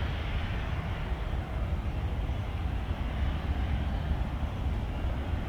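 Steady low rumble of jet airliner engines heard across the airfield, with no breaks or sudden events.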